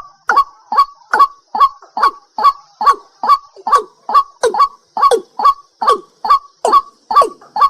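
A night bird calling over and over, a short downward-sliding note repeated about two to three times a second, with a steady high insect trill behind it.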